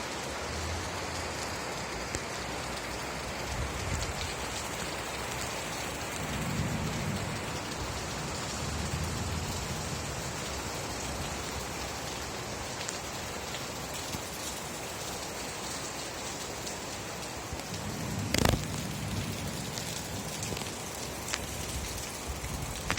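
Steady rain falling on surfaces, with low rumbles in the middle and, late on, one sharp crack followed by a low rumble, the loudest moment.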